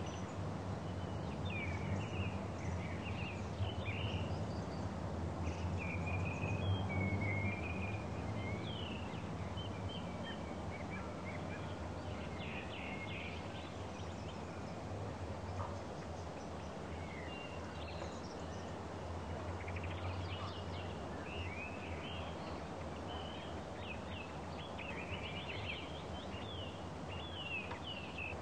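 Small songbirds chirping and twittering in short, repeated calls over a steady low hum and rushing noise.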